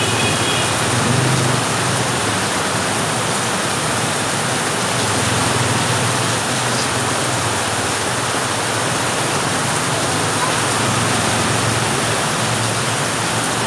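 Heavy tropical downpour pouring onto a street and pavement, a loud steady hiss of rain. Motorbike engines swell and fade beneath it as scooters ride past through the rain, a few times.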